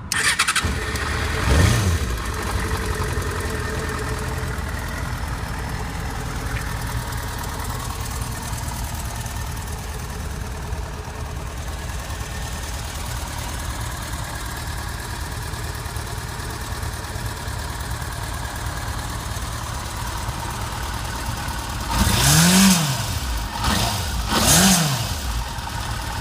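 A 599 cc inline-four Yamaha FZ6 Fazer motorcycle engine starts up and is blipped once. It then idles steadily, takes two quick throttle blips near the end, and is switched off.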